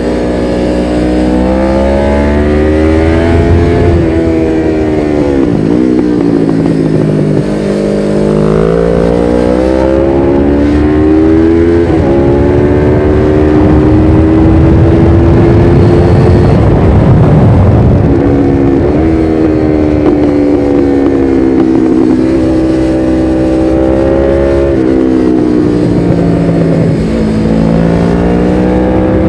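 1993 Suzuki GS500E's air-cooled parallel-twin engine running through a Takkoni slip-on exhaust with its dB-killer fitted, revs climbing and dropping several times while riding. A rougher, noisier stretch comes in the middle.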